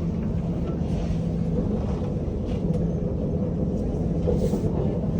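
Steady low rumble of a passenger train running, with a constant hum and no sudden knocks.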